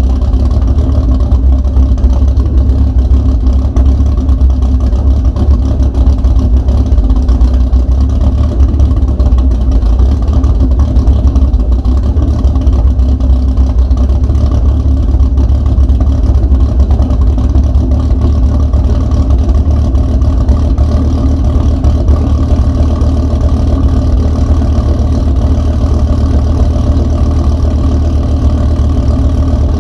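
An engine idling steadily and loudly on its first run, with no revving.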